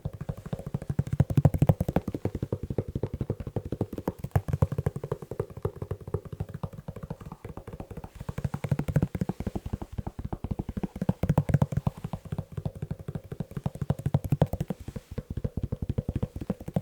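Fast, dense tapping on a leather shoe, many taps a second, dull and low-pitched, swelling and easing in waves.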